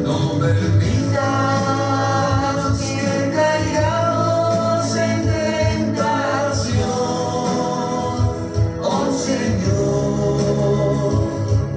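Christian worship song playing: singing over steady musical accompaniment.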